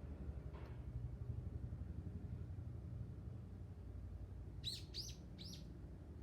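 A wild bird gives three short, high calls in quick succession, each falling in pitch, about four and a half seconds in, over a steady low rumble of outdoor background noise.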